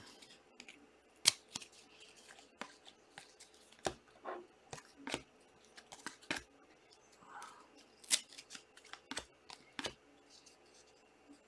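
Trading cards being handled and flipped through one at a time: irregular sharp clicks and snaps of card stock, about a dozen, unevenly spaced.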